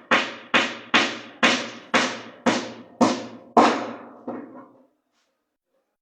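Hammer blows on wood, about two a second, nine in all, the last one weaker. The strikes stop a little before five seconds in.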